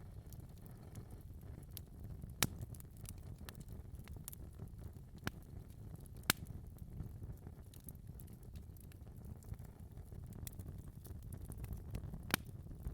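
Fireplace fire crackling: many small scattered snaps over a low steady rumble, with three sharper, louder pops.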